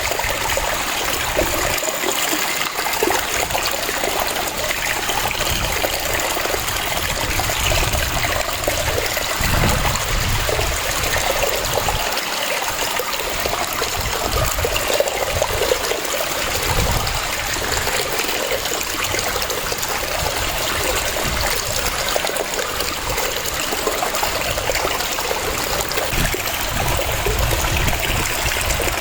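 Waterfall: water cascading in a steady rush, with an uneven low rumble swelling and fading underneath.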